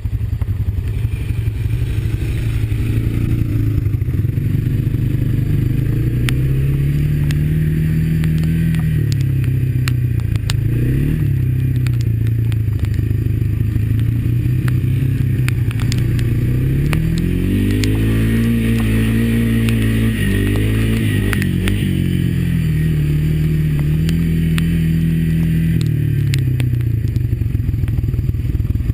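Honda ATV's single-cylinder four-stroke engine running under way on a trail, its pitch climbing as the throttle opens and dropping back several times, with the machine clattering over rough ground.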